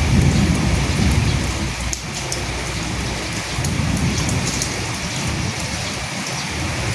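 Steady heavy rainfall, a dense hiss of drops with individual drop ticks. A low rumble swells in the first second or so and again around the middle.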